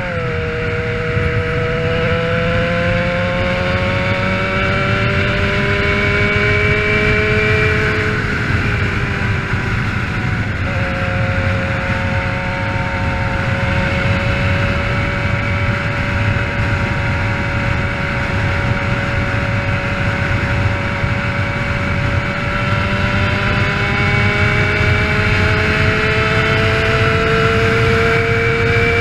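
Motorcycle engine running under way over a low rumble of wind noise. Its pitch climbs slowly for the first eight seconds, breaks off briefly, holds steady, then climbs again in the last few seconds.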